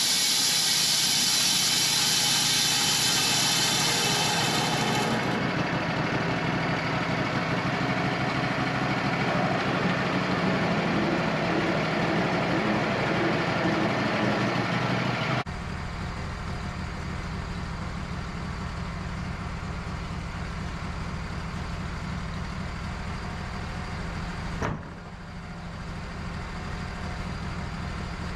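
Wood-Mizer LT15 band sawmill's motor running steadily, with a high hiss over it that stops about five seconds in. About halfway through, the sound changes suddenly to a lower, quieter running, and there is a single sharp click near the end.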